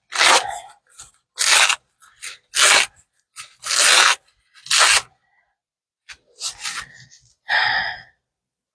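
A rubber resistance band being pulled off the exercise equipment: a run of short rasping rubs, about one a second, with a pause of about a second after the fifth.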